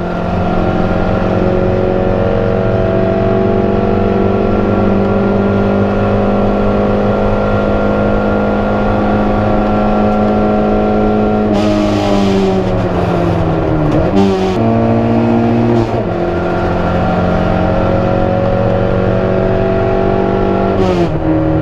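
Proton Saga race car engine running at high revs under load, held nearly level for a long stretch. About halfway through the revs fall away with noisy bursts, as when braking and downshifting for a corner. It then pulls again, with an upshift near the end.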